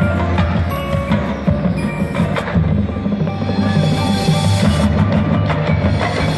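Marching band playing: held low notes under short, crisp percussion strikes and ringing mallet-percussion tones.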